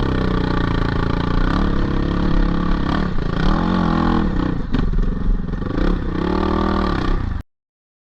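GPX 450R four-stroke single-cylinder dirt bike engine being ridden, its pitch rising and falling as the throttle is worked, with a few sharp knocks from the bike over rough ground. The sound cuts off suddenly near the end.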